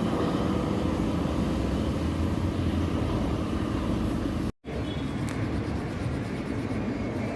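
Steady low engine rumble, broken by a brief total dropout about four and a half seconds in where the recording cuts.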